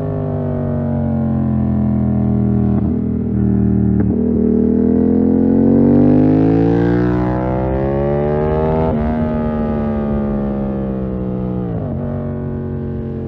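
2020 Yamaha MT-07's parallel-twin engine through a full SC-Project 2-1 exhaust, under way. It runs steadily at first, the revs climb for several seconds, then ease off slowly before a sudden drop in revs near the end.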